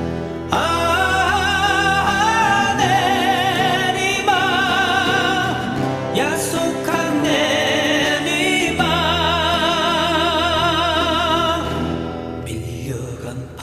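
A song: a singer holds long notes with a wide vibrato over instrumental backing.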